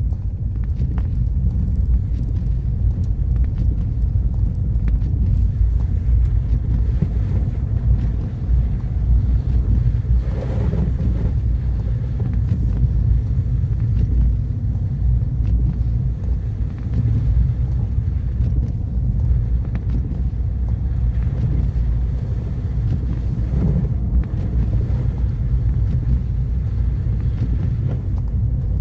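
A car driving along a road, its engine and tyres making a steady low rumble.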